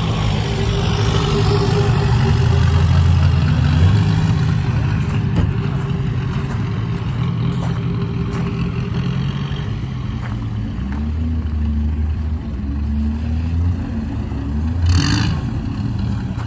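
Engines of classic cars running at low revs as the cars drive slowly off one after another, the engine note changing as a different car passes, with a short louder burst near the end.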